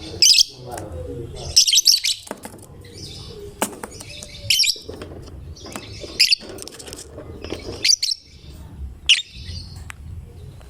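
Lovebird chirping in loud, shrill bursts, about one every second or two.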